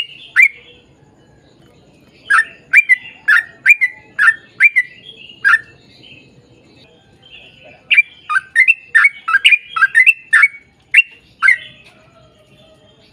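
Yellow-vented bulbul (trucukan) singing: strings of sharp, quickly falling chirps, about two or three a second. They come in two runs separated by a pause of about two seconds, and the second run is faster.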